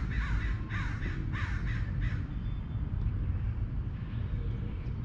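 A bird giving harsh, cawing calls, four in the first two seconds, each dropping in pitch, over a steady low rumble.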